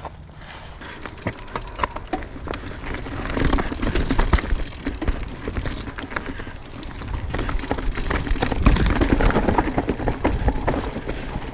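Footsteps and scuffing on rocky, leaf-covered trail ground: irregular crunches and knocks, louder about four seconds in and again from about eight to ten seconds.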